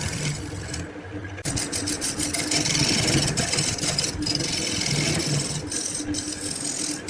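A small motor running steadily, with a strong high hiss, cutting out briefly about a second in.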